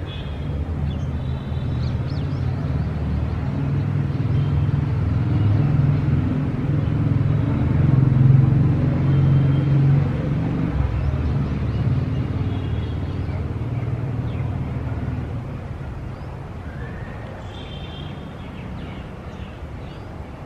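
A motor vehicle passing in street traffic, its low engine rumble building to a peak about eight seconds in and then fading away.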